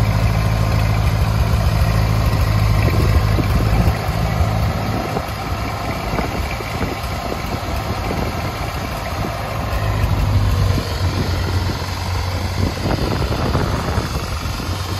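Ford 8N tractor's four-cylinder gasoline engine idling steadily, a little quieter from about four seconds in.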